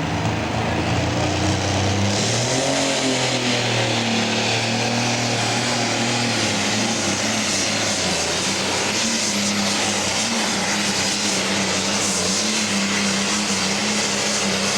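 Minneapolis-Moline G1000 pro stock pulling tractor's engine running flat out under load down the pulling track. It climbs in pitch about two seconds in, then holds steady and high. The driver says the engine was running a touch lean in the cool air and sneezed a couple of times.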